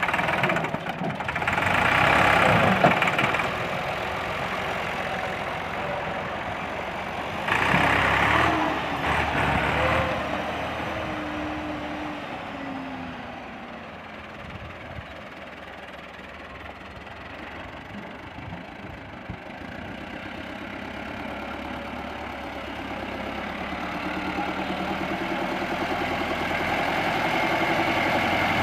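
Tractor engine running. It swells loud twice, about two and eight seconds in, settles to a quieter steady run around the middle, then builds up gradually toward the end.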